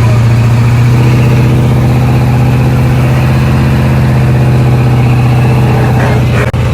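Truck engine idling loudly with a steady, deep, even hum. The sound cuts out briefly near the end.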